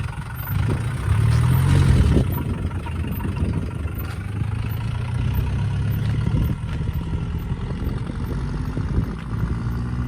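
Hindustan Ambassador car engine idling steadily. It swells louder for about a second and a half near the start, then settles back.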